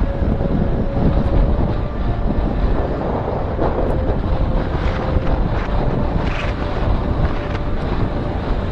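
Strong wind buffeting the microphone on a moving motorcycle, a loud steady rumble, with the bike's engine as a faint steady hum underneath.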